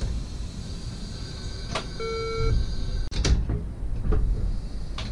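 Class 69 electric multiple unit running, heard inside the driver's cab: a steady low rumble with occasional sharp knocks and rattles. A short electronic beep of about half a second sounds roughly two seconds in.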